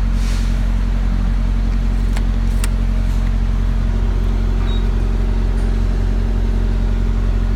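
Semi truck's diesel engine idling with a steady low hum, with a couple of sharp clicks a little over two seconds in and a short high beep about halfway through.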